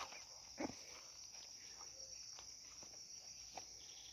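Faint, steady high-pitched chirring of crickets, with a few soft knocks or steps now and then.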